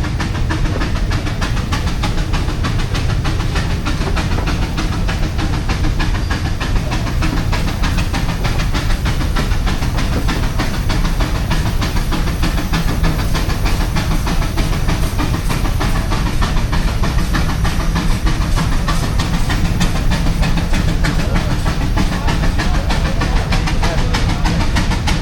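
Steam traction engines running, with a steady hiss of steam over a low, continuous rumble.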